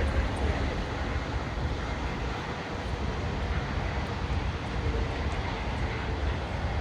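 Steady rumble of distant jet airliner engines, with wind buffeting the microphone.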